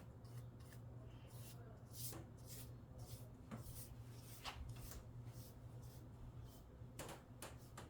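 Faint, scattered scrapes and light ticks of hand tools working on wood, a few each second, over a steady low hum.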